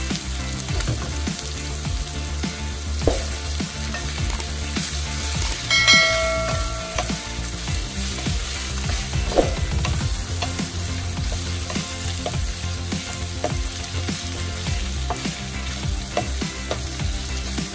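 Pork belly cubes with garlic and onion sizzling steadily in a nonstick wok, stirred and scraped with a wooden spatula that knocks the pan now and then. About six seconds in, a short ringing clink.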